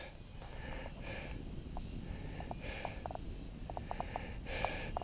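A mountain biker breathing hard, with a loud breath every second or two, over a low wind rumble on the microphone. Faint short clicks come in among the breaths.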